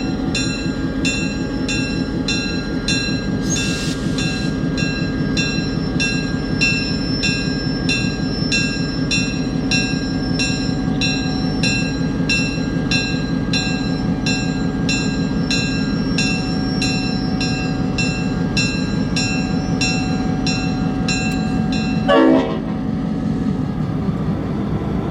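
GP38-3 diesel locomotive idling with its bell ringing steadily, about two strikes a second. There is a brief hiss a few seconds in, and a very short, loud blast on its Leslie RS5T air horn near the end.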